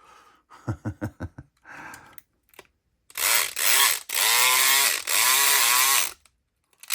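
Southord E500XT electric pick gun running in two loud bursts, its motor buzz wavering in pitch. A few sharp clicks come before it.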